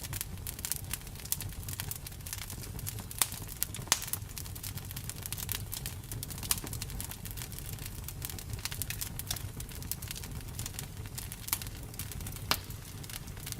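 Campfire crackling: a steady low rumble of burning wood with irregular sharp pops and snaps, a few louder ones standing out.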